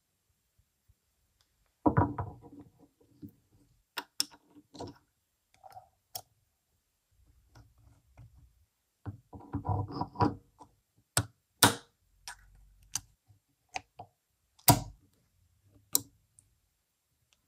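Workshop handling noises: a string of sharp knocks and clicks from parts and tools being handled, with two longer clattering stretches about two seconds and nine seconds in.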